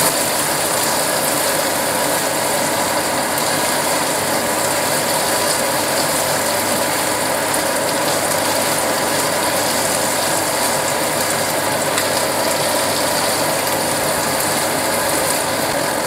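Ground spice paste with lemongrass, lime leaves, bay leaves and curry leaves frying in oil in a wok, stirred with a spatula. It makes a steady, dense crackling sizzle.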